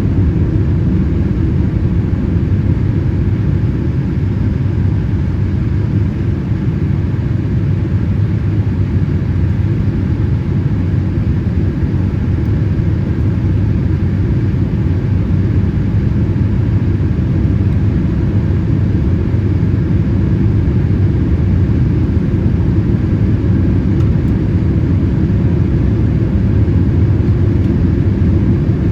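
Steady low rumble of a Boeing 787-8 airliner heard from inside its passenger cabin, with a faint even hiss above it.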